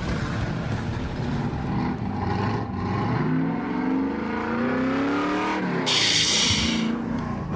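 High-horsepower custom muscle car engine accelerating hard, its pitch rising several times in a row, with a loud burst of hiss about six seconds in that lasts about a second.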